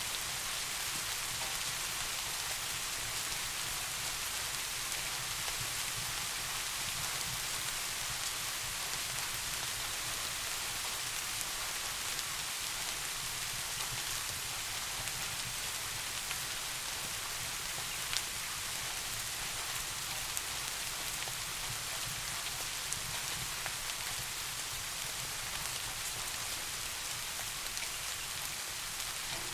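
Steady rain falling, an even hiss with a few sharp ticks of single drops.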